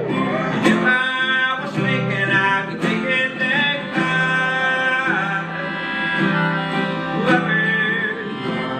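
Live acoustic band playing an instrumental passage between vocal lines, led by guitar, with sustained and sliding notes.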